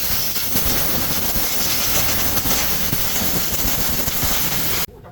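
Loud, steady hiss of compressed air blowing from an air nozzle, cutting off abruptly near the end.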